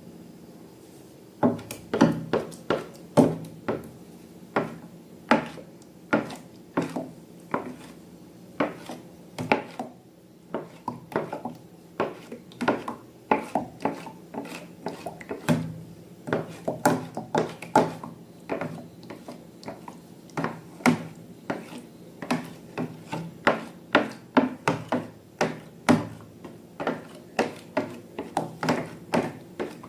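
Slime being handled and pressed, giving a long run of sharp wet clicks and pops, about two to three a second, starting about a second and a half in.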